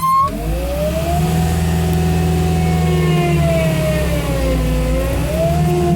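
Cat 246D3 skid steer's diesel engine running hard with the snow thrower attachment turning, starting suddenly, with a whine that climbs over the first second and then wavers up and down in pitch.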